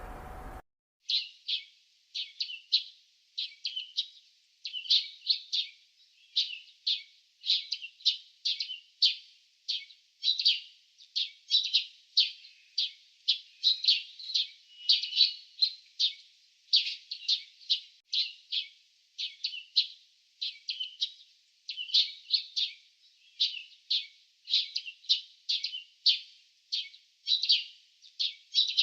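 Small songbirds chirping: short, high chirps, often in quick pairs or clusters, repeating about twice a second with near-silent gaps between them.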